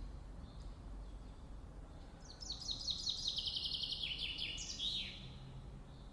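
A songbird sings one short song about two seconds in: a rapid run of short, high, descending notes that speeds up and ends in a flourish, over faint outdoor background noise.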